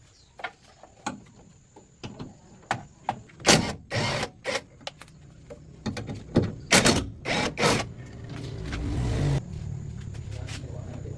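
A run of sharp knocks and clatters, the loudest in the middle, then a rushing noise that builds for about a second and a half and cuts off suddenly, leaving a steady low hum.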